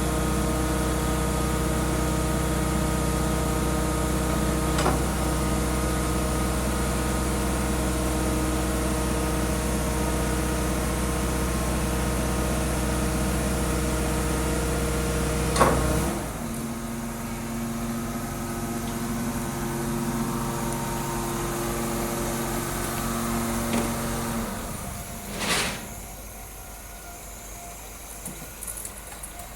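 Scania G410 truck's heavy diesel engine idling steadily. About halfway through there is a sharp click, after which the deep rumble drops away and a lighter steady hum carries on. A short hiss comes near the end.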